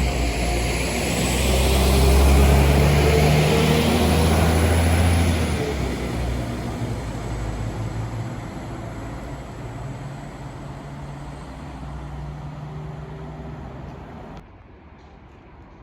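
Diesel train running past, loudest about two to five seconds in, its engine note then fading away as it moves off. The sound cuts off abruptly near the end.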